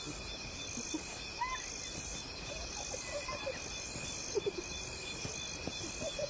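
Night insect chorus: a steady high trill with a pulsing chirp about twice a second, with scattered short, pitched animal calls over it.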